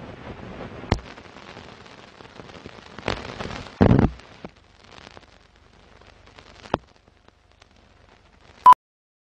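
Several sharp bangs and knocks over a rushing hiss, the heaviest about four seconds in, then one loud short click and the sound cuts off.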